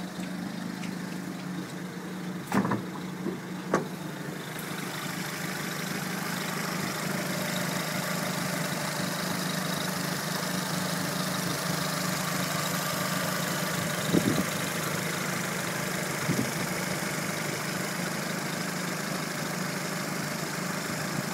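Vauxhall Astra VXR's turbocharged four-cylinder petrol engine idling steadily with a strange noise that the owner cannot identify. A few sharp clicks sound over the idle, two in the first few seconds and two more later. A hiss comes in about four seconds in and grows slightly louder.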